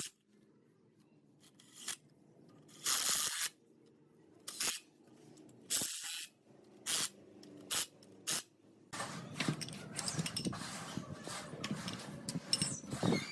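Short hissing bursts of spray, about six of them a second or so apart, then a busier run of small scraping and knocking sounds.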